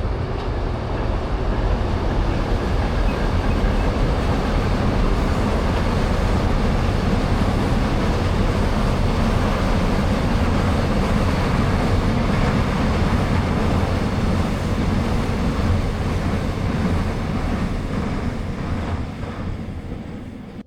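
A train passing close by on the railway line: a loud, steady rumble and rattle of wheels on the track that begins to ease off near the end.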